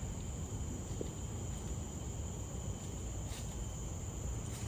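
Forest insects droning steadily on one high pitch, with a fainter second tone beneath it, over a low rumble.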